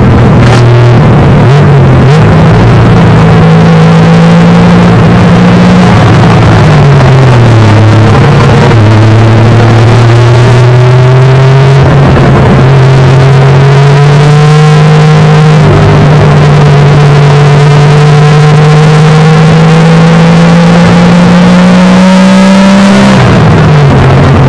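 1971 Triumph GT6's straight-six engine under racing load, heard loud from inside the cockpit. Its pitch falls away about seven seconds in, then climbs slowly for about fifteen seconds. Near the end it drops sharply, as at a gear change, and rises again.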